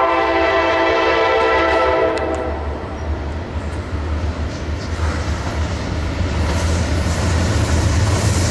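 Norfolk Southern diesel locomotive's multi-note air horn sounding a steady chord that cuts off about two and a half seconds in, then the rumble of the approaching diesel locomotives' engines growing louder as the train nears.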